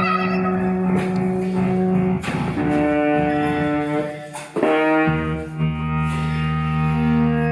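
Live instrumental music from a small ensemble, with no singing. Held notes and chords change with plucked attacks at around two, four and a half and five seconds in.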